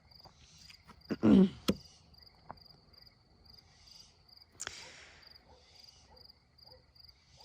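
A cricket chirping, a fast even pulsing that goes on without a break. About a second in comes a brief loud rustling knock, and a softer rustle follows near the five-second mark.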